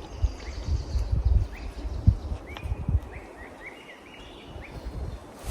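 Small forest birds calling: short rising chirps, a quick run of several near the middle, and a thin high whistle in the first second or so. Irregular low buffeting of wind on the microphone runs beneath them, with its strongest gust about two seconds in.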